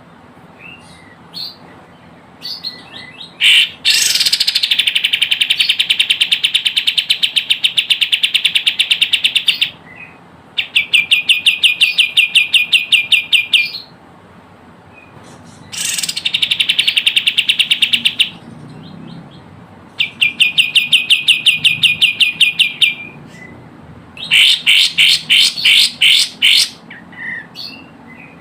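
Kapas tembak bird calling in loud runs of rapid, evenly repeated chattering notes, each run lasting a few seconds with short pauses between. It is a lure recording meant to provoke and draw in wild kapas tembak.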